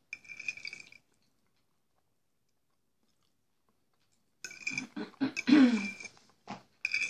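Close-miked chewing and wet mouth sounds of a man eating kholodets, jellied meat aspic, with a fork working in the bowl. There is a burst in the first second, a silent pause of about three seconds, then louder chewing from a little past the middle to the end.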